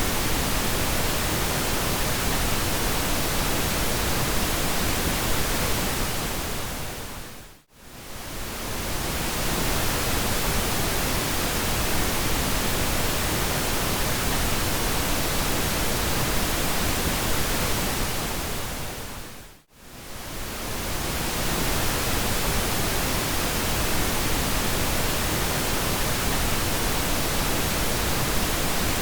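Pink noise: a steady, even hiss spread across all pitches. It fades briefly down to near silence and back up twice, about eight and twenty seconds in.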